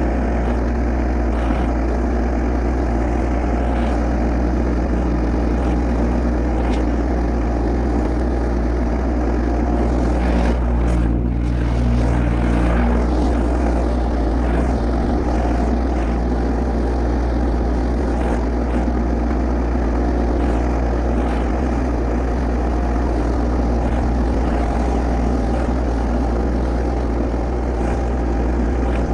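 Compact tractor engine running steadily under a strong low drone, briefly louder for a couple of seconds about eleven seconds in.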